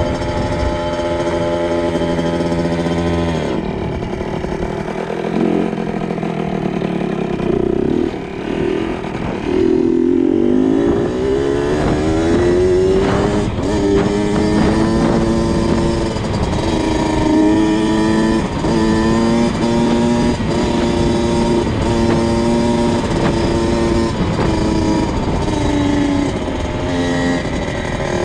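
2002 Kawasaki KX 65 dirt bike's small two-stroke single-cylinder engine running under throttle while ridden. Its pitch drops off about three seconds in, climbs again, then rises and falls over and over in short steps of throttle.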